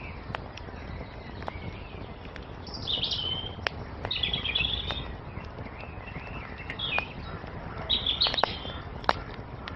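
Wood fire crackling, with scattered sharp pops over a steady hiss, while small songbirds sing short twittering phrases several times, the loudest near the end.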